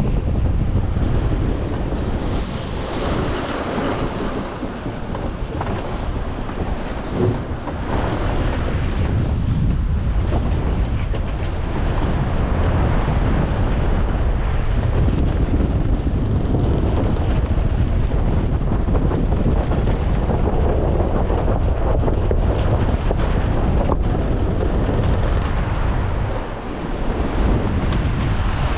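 Strong wind buffeting the microphone over the rush and splash of waves around a sailing yacht under way in heavy weather.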